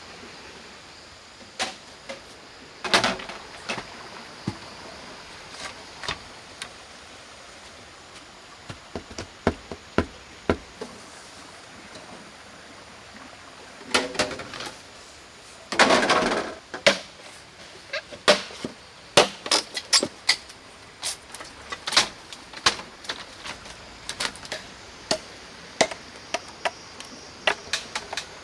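A series of irregular sharp knocks and taps, coming thicker in the second half, with two longer noisy bursts about 3 and 16 seconds in, over a steady faint hiss.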